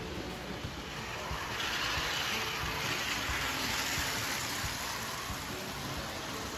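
Model train running on its track, a steady rumble with a rushing hiss that swells about a second and a half in and fades again toward the end, as if passing close by.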